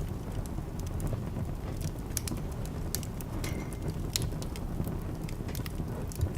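Wood fire in a fireplace burning with a steady low rumble, crackling and popping in many sharp irregular snaps, with a brief thin whistle about three and a half seconds in.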